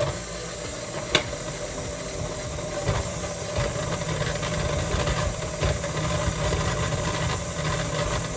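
Electric stand mixer running steadily as it creams pieces of butter that are still a little hard, with a sharp knock about a second in and a few fainter knocks after.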